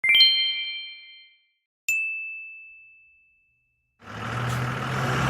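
A bright bell-like chime of several tones rings out, then about two seconds in a single clear ding rings out. About four seconds in, steady traffic noise with a low engine rumble fades in.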